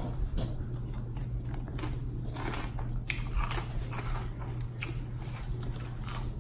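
Close-miked chewing of crisp lettuce salad: wet crunches and bites coming irregularly, several a second. A steady low hum runs underneath.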